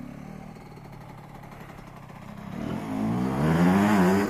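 Dirt bike engine running at low revs, then revving up and getting much louder from about two and a half seconds in, its pitch wavering up and down as the throttle is worked.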